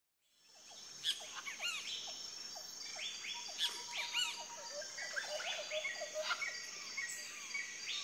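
Several birds calling and singing at once: many short chirps and rising and falling whistles overlapping, over a thin steady high background tone.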